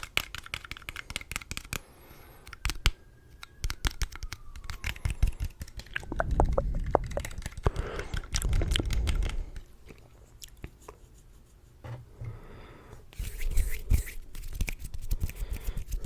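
Close-miked ASMR tapping and scratching by fingers: quick, irregular sharp taps, with a stretch of low, muffled rubbing in the middle and another busy flurry of taps near the end.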